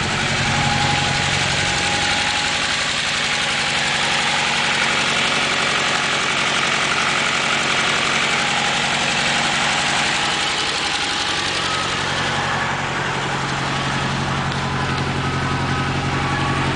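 Turbocharged Honda H23A 2.3-litre four-cylinder engine idling after a cold start; for several seconds in the middle the steady idle note turns rougher before settling again. The engine has forged pistons, which typically make piston noise while cold.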